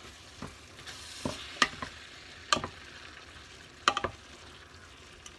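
A spoon stirring rice with peas, onion and tomato sauce in a sizzling frying pan, knocking against the pan about six times over a steady sizzle.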